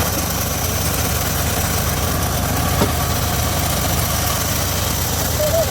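Engine of a homemade circular sawmill running steadily, with one short knock about three seconds in.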